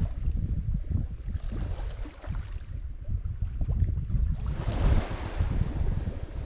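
Lake Michigan waves breaking and washing ashore, one wash swelling about a second and a half in and a bigger one about four and a half seconds in. Under them runs a heavy, gusting low rumble of wind buffeting the microphone.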